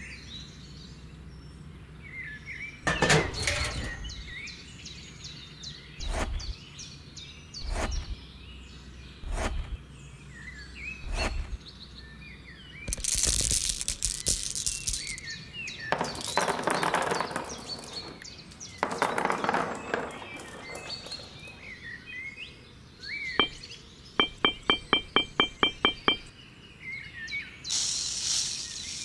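Handling sounds of building a miniature farm diorama: scattered knocks and clicks, a few short rushing bursts, a quick run of about ten sharp clicks, and white granules pouring from a small toy bucket near the end, with birds chirping in the background.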